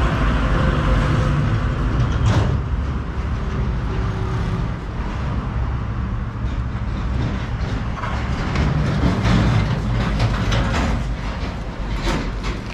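Royal Enfield Himalayan's single-cylinder engine running steadily as the motorcycle is ridden along the road.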